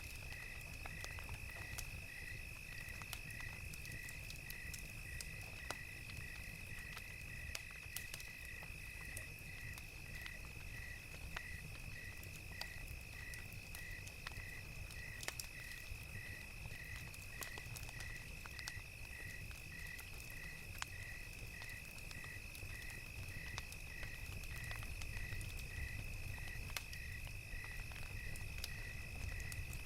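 Crickets chirping: one steady high trill and a second cricket chirping evenly about three times every two seconds. Under them, the scattered pops and crackles of a wood fire and a low rumble.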